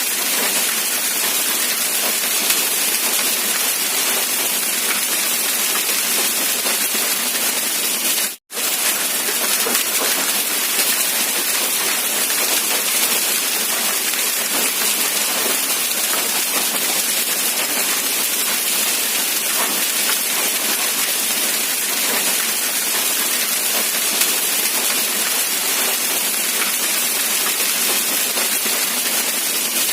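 Steady rain falling, an even hiss with no thunder and no distinct drops standing out. The sound cuts out for a split second about eight seconds in, then carries on unchanged.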